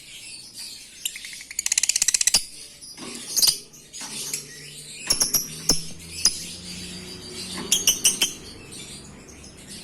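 Lovebirds chattering in high, scratchy chirps, with a fast rattling trill lasting about a second near the start and sharp high chirps and clicks later on.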